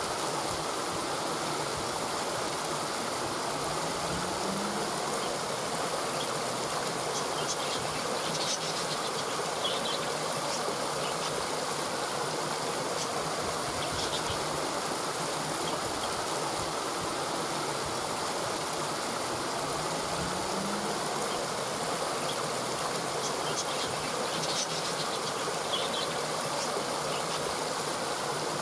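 Steady rushing of a flowing stream, with a few faint, short high chirps now and then.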